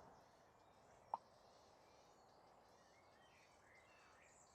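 Near silence with faint bird chirps, broken by one brief tone about a second in.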